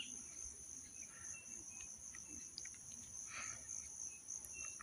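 Insects trilling in a steady high-pitched drone, with a few faint short bird chirps over it.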